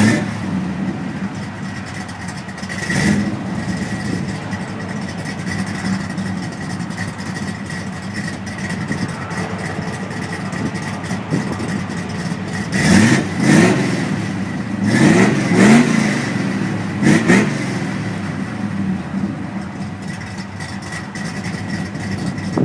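Classic car's engine idling just after starting, then revved in about five quick blips, the pitch rising and falling each time, before settling back to idle.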